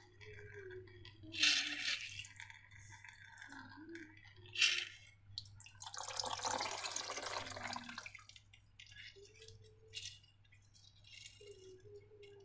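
Wet, sticky slime being handled with balloons: short wet bursts about a second and a half in and near the middle, then a longer wet, squishy stretch, with faint squeaks between.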